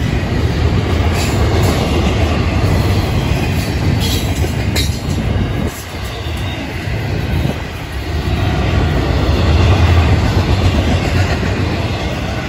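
Florida East Coast Railway freight train's double-stack intermodal well cars rolling past, a steady rumble of steel wheels on rail, with a couple of brief sharp metallic sounds about four to five seconds in.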